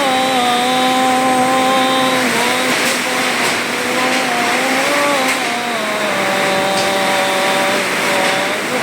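Wind and rain noise during a storm, with a droning pitched sound that holds steady notes and steps up and down in pitch several times.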